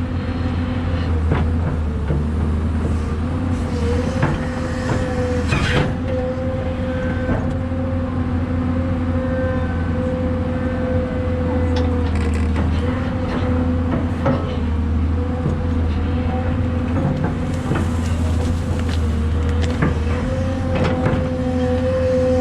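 Excavator's diesel engine running steadily under load while digging, with scattered knocks and clanks from the working machine.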